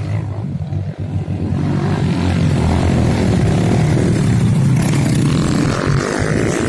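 A 150cc single-cylinder trail motorcycle engine running under throttle, getting louder over the first two seconds and then holding steady.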